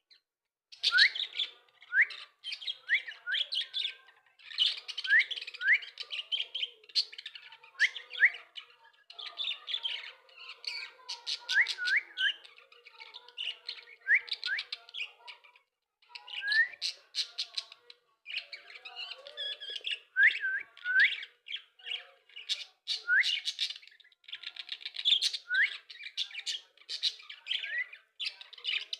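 Pet parrot chattering and chirping, with many short, quick rising whistles mixed into the chatter and brief pauses between bouts.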